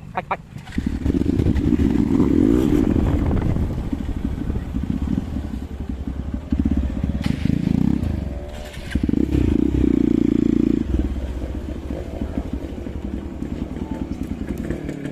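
Hero Xpulse 200 single-cylinder motorcycle engine running under way, rising in three loud surges of throttle and then settling to a steadier, lower run.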